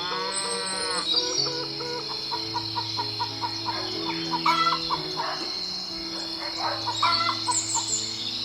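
A rooster crows once at the start, followed by hens clucking in short repeated runs and small birds chirping, over a steady high insect-like drone and low held background notes.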